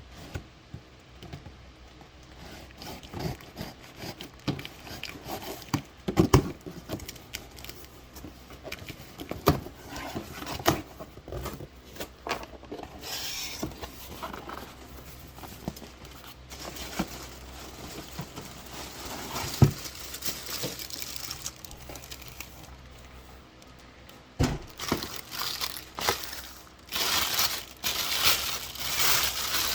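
Packaging being handled, likely unwrapping a new appliance: crinkling plastic or paper with scattered knocks and thumps, getting busier and denser near the end.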